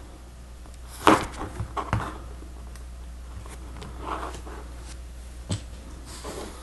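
Plastic Lego Technic pieces clicking and rattling as they are handled, with a quick cluster of sharp clicks about a second in, then softer rustling and a single click later, over a steady low hum.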